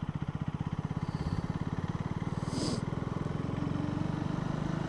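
Motorcycle engine idling steadily, a fast even run of exhaust pulses.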